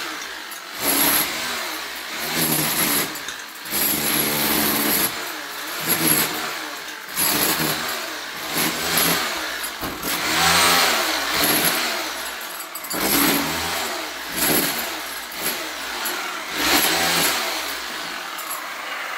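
A handheld electric power tool's motor running in repeated bursts of one to two seconds, its pitch rising and falling as the trigger is worked and the tool takes load.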